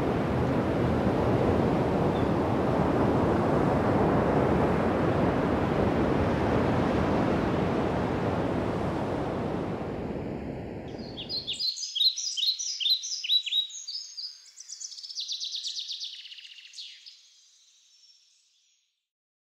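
Steady sea-surf noise that cuts off suddenly about twelve seconds in, overlapping a small bird chirping: a run of quick falling chirps, then a fast trill that fades away near the end.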